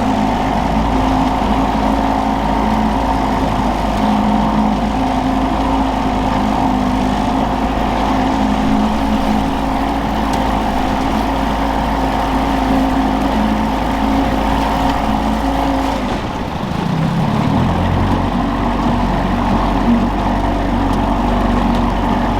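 Boat's outboard motor running steadily at trolling speed. Its pitch changes briefly about sixteen seconds in, then it settles into a steady run again.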